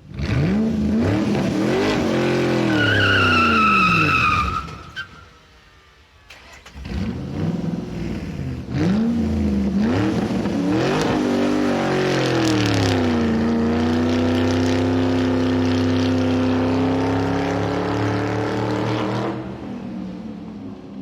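Car engine revving hard, its pitch climbing and falling through gear changes, with a high tire squeal about three seconds in. The engine dies away briefly, revs up again, and from about halfway through holds a steady, slowly rising note until it drops off near the end.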